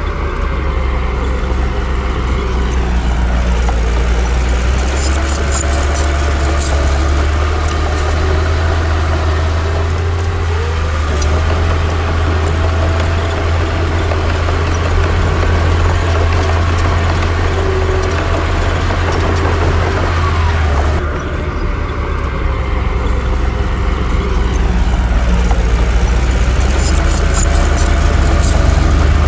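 Heavy diesel engine of earth-moving equipment running with a strong low rumble, its pitch rising and falling as the load changes, with scattered light clicks.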